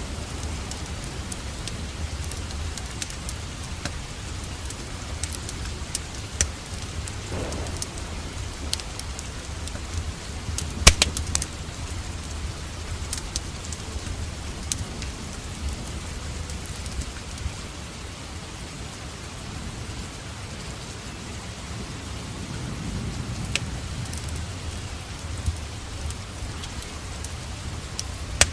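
Steady rain falling, with a wood fire in a fireplace crackling over it: scattered sharp pops, a loud cluster of them about eleven seconds in.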